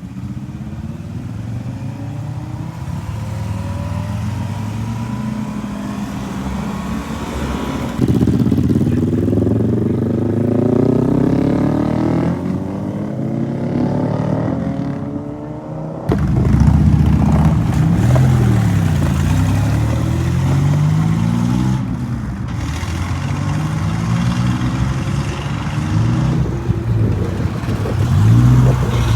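Car engines accelerating hard out of a car meet, their pitch climbing steadily. The sound changes abruptly about eight and sixteen seconds in. In the later part an engine is revved up and down several times.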